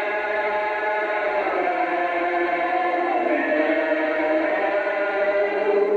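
A group of voices singing a worship hymn together, holding long notes.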